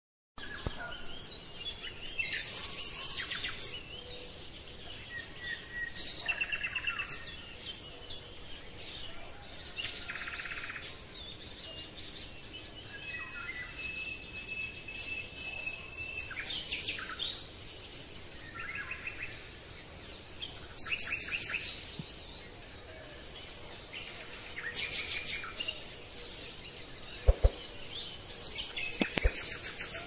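Several birds chirping and trilling in short, varied high calls. Two sharp clicks come near the end.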